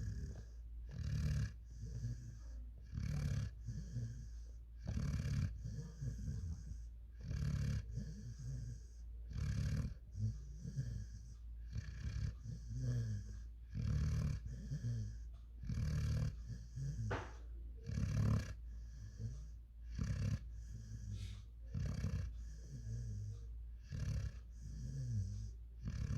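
A sleeping German Shepherd–Boerboel cross puppy snoring, a noisy breath about every two seconds in an even rhythm. About seventeen seconds in, one short rising squeak.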